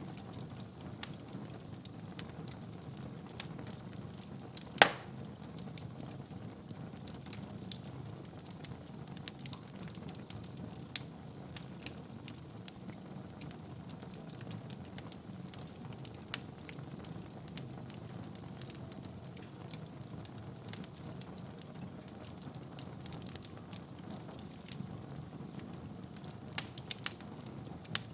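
Wood fire burning in a fireplace: a steady low rumble with scattered crackles, one loud pop about five seconds in and a quick run of pops near the end.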